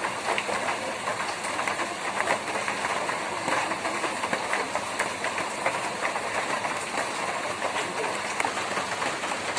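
Rain falling on a tin roof: a steady hiss thick with sharp, irregular clicks of drops striking the metal.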